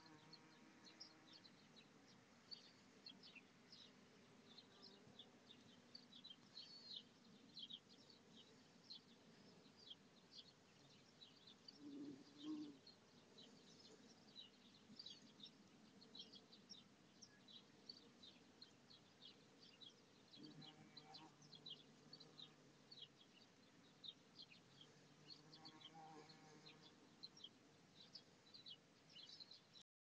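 Faint outdoor birdsong: many short, high chirps repeating throughout. Now and then a bumblebee's low buzz rises briefly as it flies among the flowers, about twenty seconds in and again near the end.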